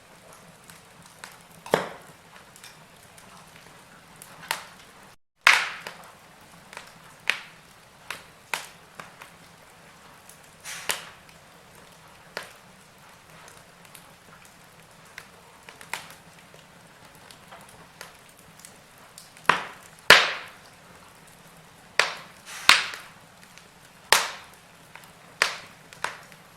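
Wood fire crackling: irregular sharp pops and cracks from burning logs over a faint steady hiss, busier and louder in the last few seconds. The sound drops out completely for an instant about five seconds in.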